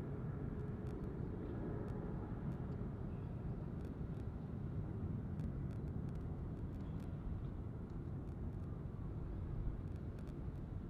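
Low, steady rumble of a distant jet airliner's engines, with a few faint ticks.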